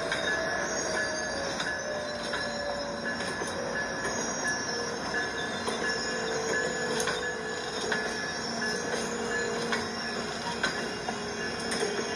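Train passing on the rails, its wheels squealing in a tone that slowly drops in pitch, with scattered sharp clicks from the wheels over the track.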